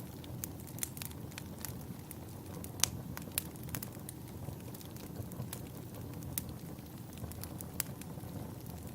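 Wood fire burning in a fireplace, crackling with irregular sharp pops over a steady low rustle of the flames; the loudest pop comes a little under three seconds in.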